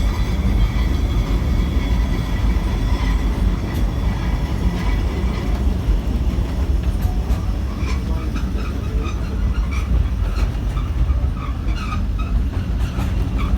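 Great Orme Tramway tramcar, a cable-hauled tram, running down its track with a steady low rumble; short higher sounds join in from about halfway through.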